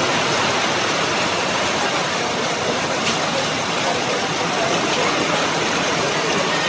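Heavy rain pouring down and splashing on a wet road: a loud, steady, even hiss.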